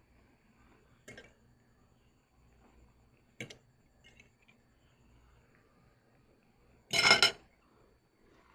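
Eating utensils knocking against a dish: two short clinks, then a louder clatter about seven seconds in.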